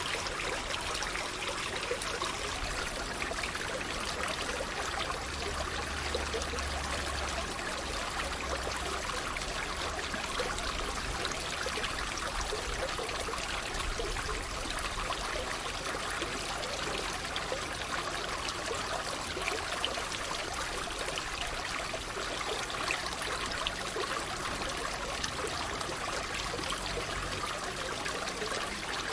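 Water trickling and splashing steadily, like a small stream.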